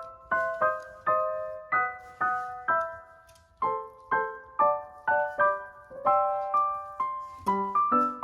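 Background piano music: a gentle melody of single struck notes, each ringing and dying away, about two or three a second, with lower notes joining near the end.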